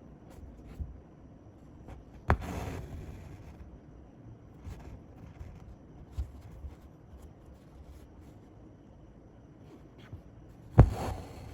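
Hand embroidery worked close to the microphone: a needle puncturing taut fabric with two sharp pops, each followed by a brief scratchy rasp of thread drawn through, among small ticks and taps of handling.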